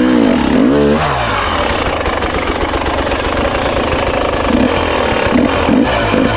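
Husqvarna TE300i's 300 cc two-stroke single-cylinder engine revving hard in second gear on a steep climb, the revs swinging up and down sharply in the first second and several times again near the end.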